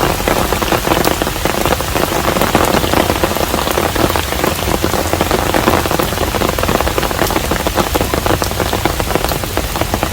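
Steady, fairly loud rain falling on a hanok, a traditional Korean house: a dense, even patter of many individual drops.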